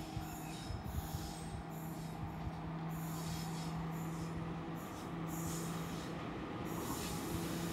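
Express train approaching on the line: a steady low hum over rumbling rail and wheel noise, slowly getting louder.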